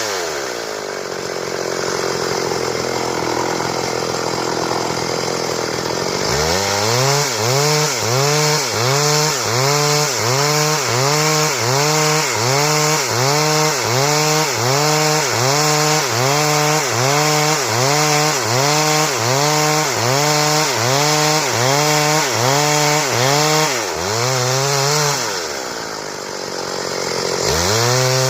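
Stihl chainsaw cutting wood into boards. It runs at a steady high pitch for the first several seconds, then its engine pitch repeatedly dips and rises again about once a second.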